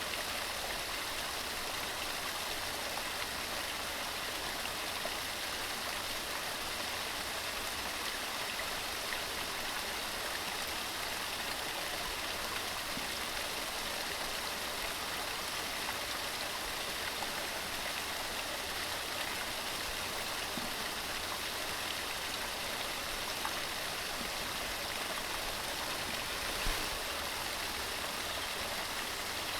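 Waterfall: water cascading over rocks, a steady, even rush with no breaks.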